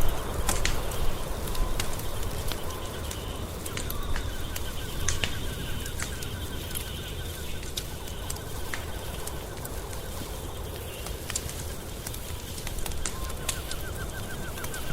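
Wood fire crackling with frequent sharp pops over a steady low rumble. A faint, rapid trill sounds in the background from about four seconds in and again near the end.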